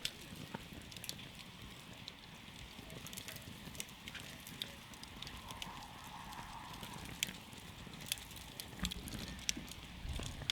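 Campfire burning, wood crackling with scattered sharp pops over a low, steady rumble of the flames.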